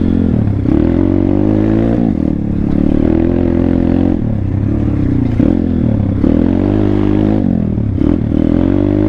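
Thumpstar 140cc pit bike's single-cylinder four-stroke engine running while ridden, its revs climbing and dropping several times as the throttle opens and closes.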